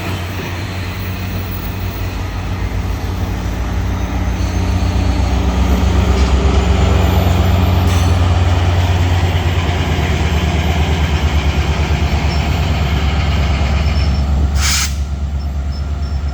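MARC commuter train locomotive's engine running with a low, pulsing throb that grows louder over the first few seconds and then holds steady. About fifteen seconds in comes a short burst of air hiss.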